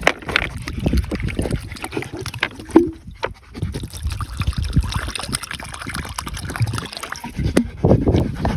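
Water sloshing and trickling in a bowl as a dog noses and paws at it, with irregular low knocks and scuffs.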